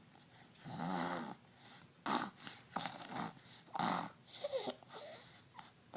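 Baby making short breathy vocal sounds, grunts and coos, in about five separate bursts starting just under a second in.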